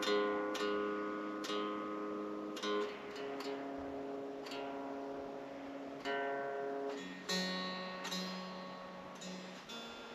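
Chapman SAR63 electric guitar being tuned, single strings plucked one at a time and left to ring out, a new pluck every second or so. It is being tuned to drop D a half step down (drop C sharp).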